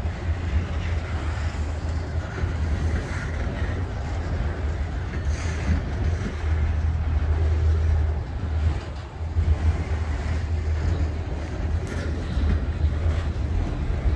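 Freight train of autorack cars rolling past close by: a steady low rumble of steel wheels on rail, with wind buffeting the microphone.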